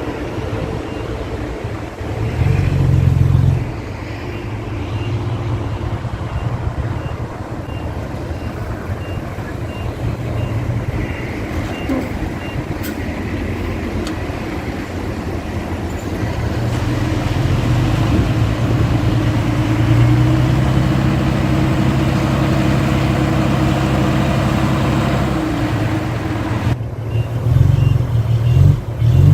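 Diesel engines of heavy earthmoving machines running steadily under load, surging louder twice, briefly a few seconds in and for a longer stretch in the second half. A faint reversing beeper sounds at intervals.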